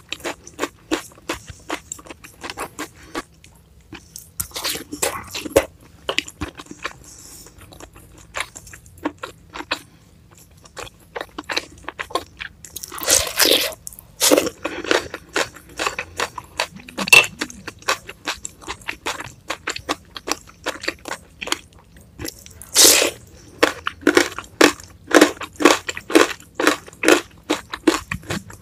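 Close-miked chewing with many short crisp crunches. Twice, about halfway through and again later, a longer loud slurp, as broth is sipped from a wooden spoon.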